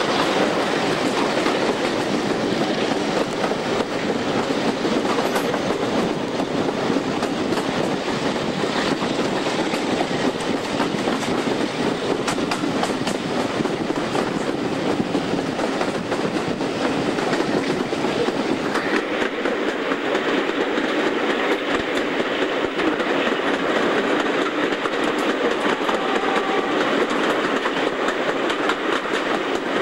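Passenger train hauled by diesel-hydraulic locomotives D832 and D7076, heard from an open carriage window at speed: a steady loud rush of wheel and rail noise with clickety-clack over the rail joints.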